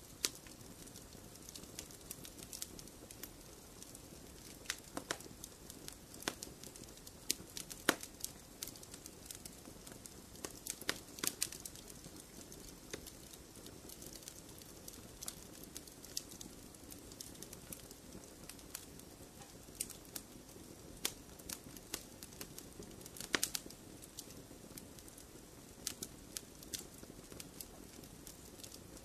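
Wood fire crackling in a fireplace: irregular sharp pops and snaps from burning logs over a soft low rush of flame, with a few louder pops scattered through.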